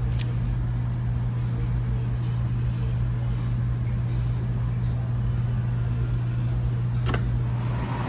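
A steady low mechanical hum with a faint click near the end.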